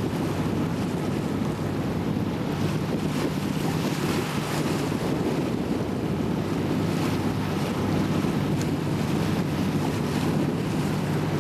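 Motorboat underway: a steady engine hum under the rush of water, with wind buffeting the microphone.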